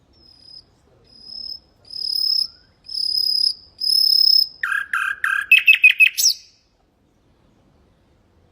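Common nightingale singing one phrase: a run of about five drawn-out whistled notes that grow louder, then a quick burst of rapid lower notes ending in a short upward flick.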